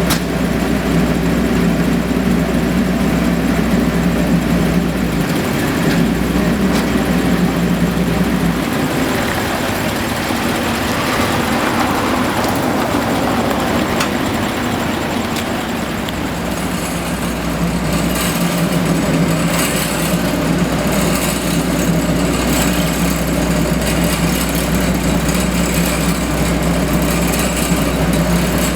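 Diesel engines of asphalt-paving machines running steadily. A deep low hum drops away for about ten seconds mid-way, then returns.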